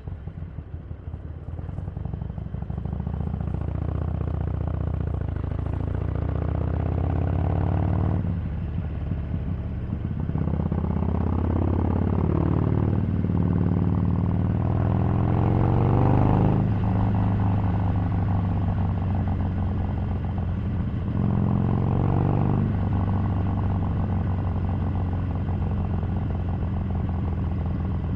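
Harley-Davidson Sportster 883's air-cooled V-twin engine under way. It starts at low revs, and through the rest of the ride the pitch climbs as the bike accelerates and drops back each time it shifts up a gear, several times over.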